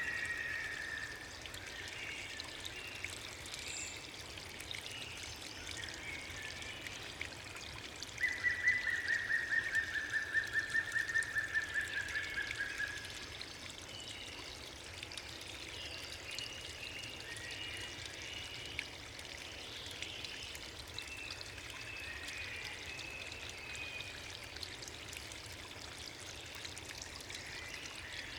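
Steady rush of water from the gorge's falls and river. About eight seconds in, a long, fast trill sounds for around five seconds, dropping slightly in pitch. There is a shorter trill at the start and scattered chirps.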